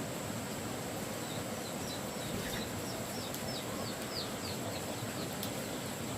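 A small songbird singing a run of quick, high, falling notes, about three a second, over a steady outdoor hiss.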